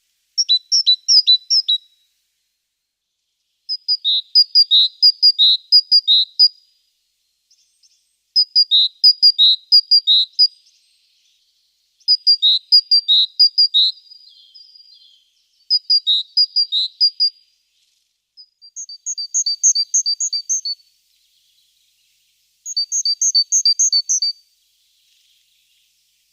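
A songbird singing a series of short phrases, each a quick run of high chirping notes, repeated about every four seconds, seven times in all.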